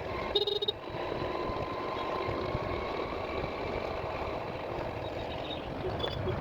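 Vehicle on the move: steady engine and road noise. A short, loud beep sounds about half a second in.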